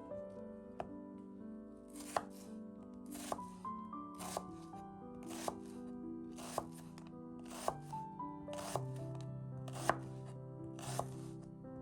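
A knife cutting through vegetables on a cutting board, one cut about every second, each a short crunch ending in a click on the board, over background music.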